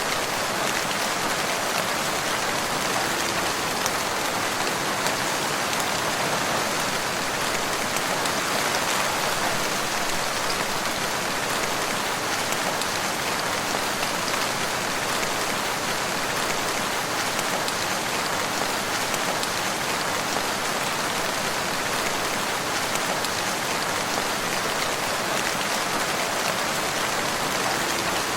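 Steady rain falling in a forest, an even patter of many drops.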